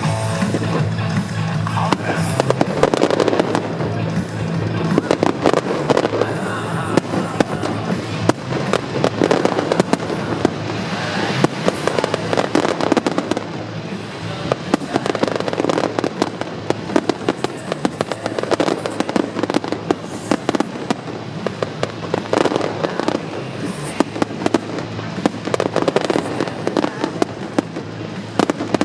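Fireworks display: a continuous barrage of rapid bangs and crackling shell bursts with no break. Music plays underneath, clearer in the first couple of seconds.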